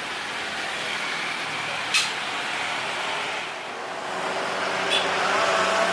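Jet airliner engines running as a broad steady roar. It dips, then grows louder over the last couple of seconds as whining tones climb in pitch. There is a sharp click about two seconds in and another near the end.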